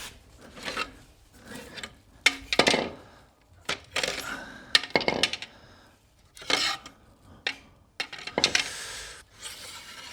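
Metal aircraft engine parts being picked up and set down on one another: a series of separate clinks and knocks, some ringing briefly.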